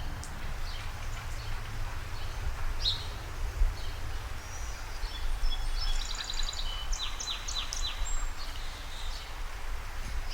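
Wild birds chirping over a steady low rumble: one chirp about three seconds in, then a run of quick repeated notes and several short falling chirps from about five to eight seconds in.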